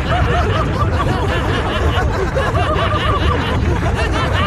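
Several cartoon voices laughing and snickering together, with an ostrich laughing as its feet are tickled.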